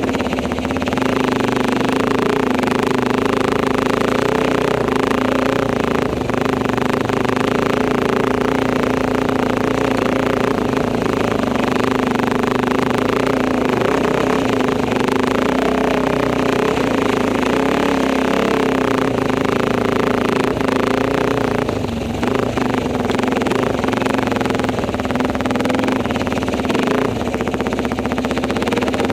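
Enduro motorcycle engine running steadily under way, its pitch rising and falling a little with the throttle.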